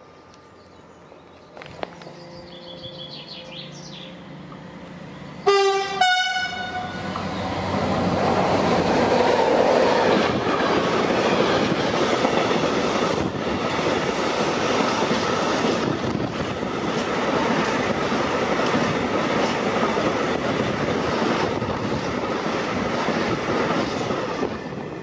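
A train sounding its horn in one short blast about five seconds in, then passing close by for nearly twenty seconds with the steady rush and clatter of wheels on rail, dropping away just before the end.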